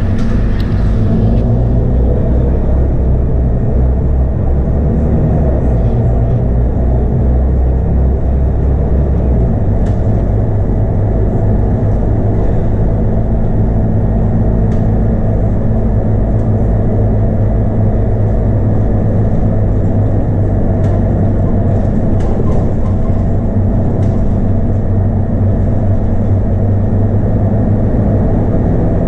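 Scania DC9 five-cylinder diesel engine of a Scania K230UB bus running steadily, heard from on board, its low note shifting about ten seconds in, with light rattles.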